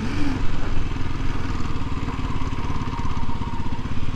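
Kawasaki KLX 300's single-cylinder four-stroke engine running steadily at low revs, with an even pulsing note.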